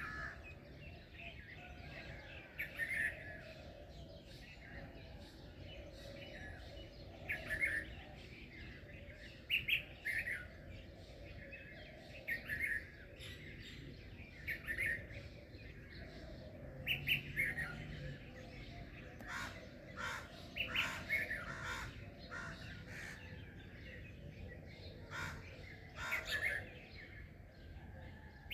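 Morning songbirds chirping: short chirps every second or two over a steady background hiss. About two-thirds of the way through comes a run of quick repeated calls.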